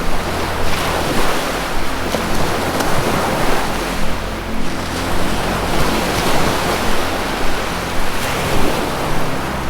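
Ocean surf washing in slow swells, a wave rising and falling about every three to four seconds, over a soft, steady low musical drone.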